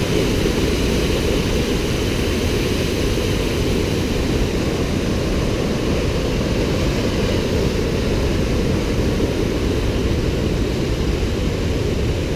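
Steady roar of rushing water from a waterfall or rapids, even and unbroken, deepest in the low end.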